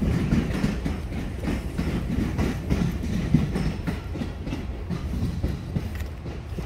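Train wheels clattering in a quick, uneven rhythm as the train goes by, fading near the end.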